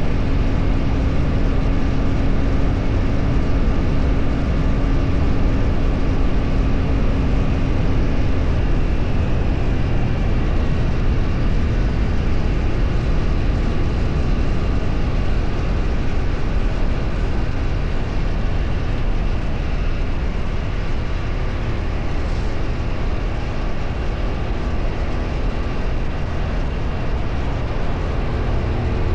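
Steady travel noise of a road vehicle under way: engine and wind rushing loudly and evenly, with a steady hum that fades out about eight seconds in.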